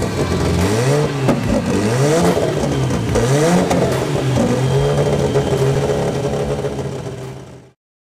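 Turbocharged dragster engine being blipped, its revs rising and falling about once a second, then settling to a steadier run before fading out near the end.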